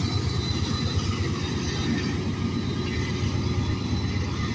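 Freight train passing close by: a steady rumble of the train and its cars rolling on the rails.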